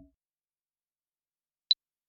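Electronic computer sound effects: the last of a fading lower electronic tone right at the start, then silence and a single very short, high-pitched beep near the end.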